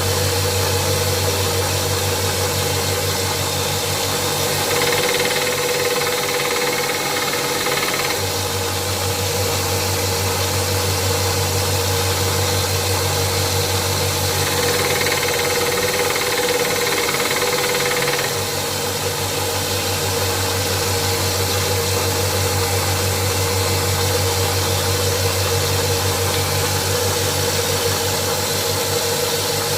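Small 1-inch belt and disc sander running steadily with a knife-sharpening belt, grinding the back of a steel chisel flat. Twice, for about three seconds each, the motor note drops and a higher grinding hiss comes in as the chisel is pressed harder against the belt.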